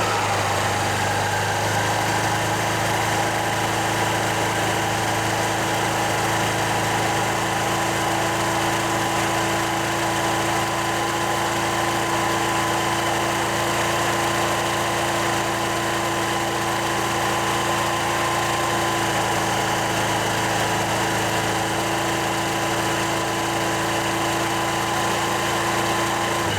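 Honda PCX JF56 scooter's 125 cc single-cylinder engine idling steadily, its revs settling down to idle right at the start.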